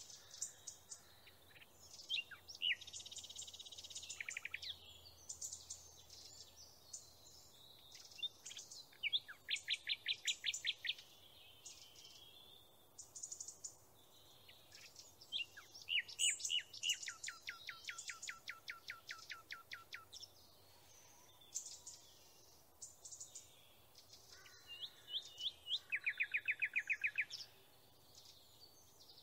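Songbirds singing: phrases of high chirps and rapid trills of evenly repeated notes, with short quieter pauses between phrases.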